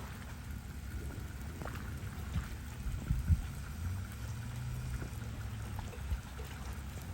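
Rain and running-water noise over a steady low rumble, with a few soft knocks about three seconds in.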